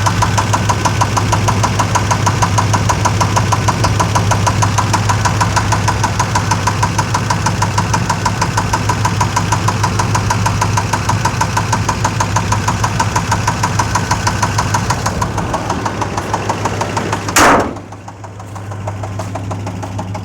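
Chevrolet Suburban's 5.7-litre V8 idling with a rapid, even knocking or ticking in time with the engine, heard after the truck sat unused for months. Near the end the ticking fades and there is one loud thump, after which it is quieter.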